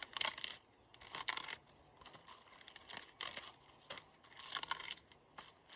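Irregular crackly rustling and tearing of cabbage leaves being handled and broken, in short uneven bursts.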